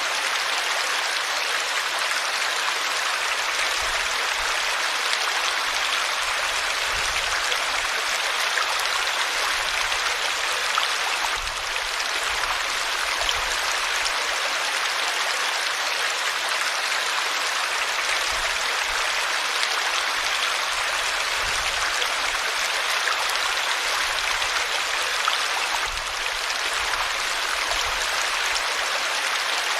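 River water flowing steadily, an even unbroken wash of rushing water noise.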